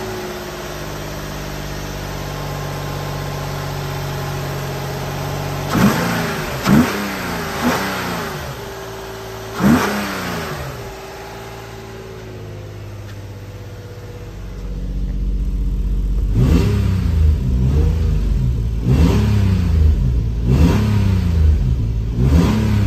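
Nissan 350Z's VQ35HR 3.5-litre V6 idling fast just after a cold start, blipped four times in quick succession about six to ten seconds in, then settling. From about halfway it is heard from inside the car, louder and deeper, revved again and again about every second and a half.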